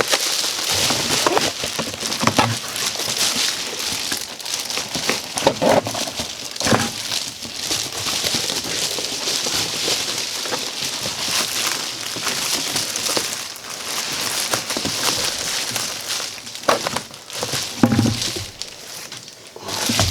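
Reflective foil-and-bubble insulation crinkling steadily as it is handled and pulled apart, with occasional sharper crackles and knocks.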